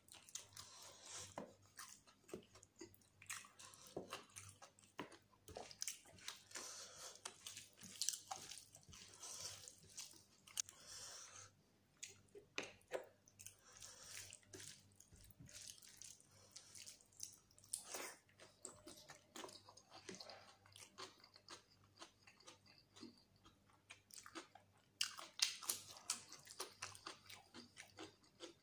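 Close-miked sounds of a man chewing mouthfuls of rice and chicken curry: many short, quiet wet clicks and smacks. Fingers mix the rice into the curry gravy on the plate in between.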